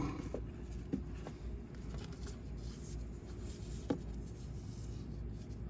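Faint rustling and a few light, scattered clicks of hands handling parts and wiring under a truck's dashboard, over a steady low hum.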